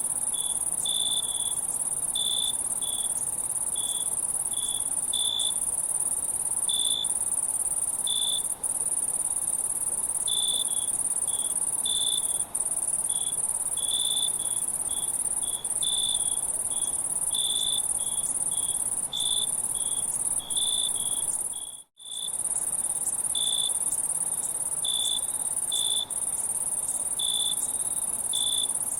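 Insect chorus of crickets: a steady high-pitched trill with short, higher chirps repeating at an uneven pace over it. The whole sound cuts out for a moment about two-thirds of the way through.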